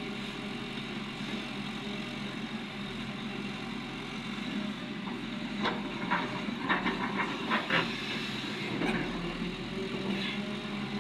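Heavy diesel engine running steadily, with a quick run of sharp knocks and clatters for about two seconds in the middle.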